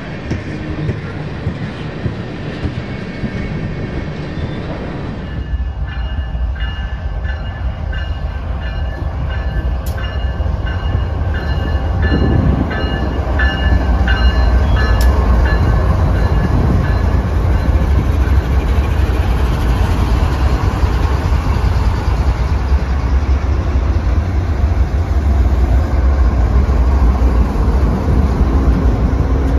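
A train passing close by. A heavy rumble builds from about five seconds in and then holds steady and loud. For several seconds near the start of the rumble, the wheels click rhythmically over rail joints and faint high squealing tones can be heard.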